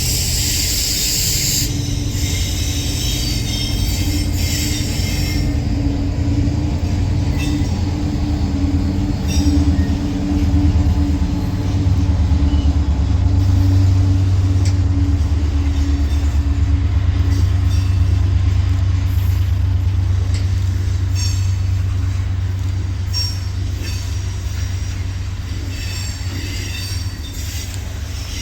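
Train rolling past with a steady low rumble. High-pitched wheel squeal is strongest in the first two seconds and comes back in short bursts near the end.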